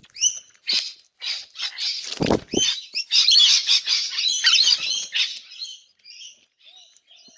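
Several birds calling and chattering in quick, overlapping high chirps and squawks, busiest in the middle and thinning out near the end, with a short low rustle or thump a couple of seconds in.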